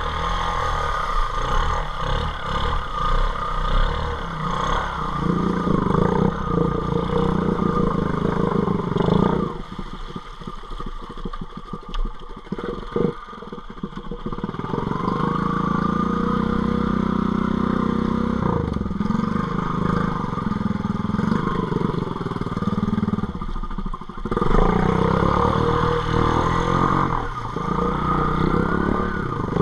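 ATV engine running under throttle in second gear, its pitch rising and falling as it revs and pulls. About ten seconds in it drops back to a lower, quieter run with a few knocks and clatter, then picks up and revs again.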